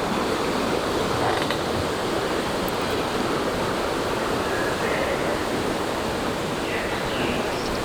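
Steady rushing of a rainforest creek flowing nearby.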